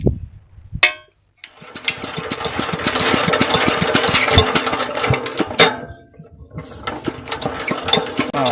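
16 hp diesel engine of a tube-well pump running with a dense, rapid knocking clatter and a steady hum, cutting out briefly about six seconds in and then running again.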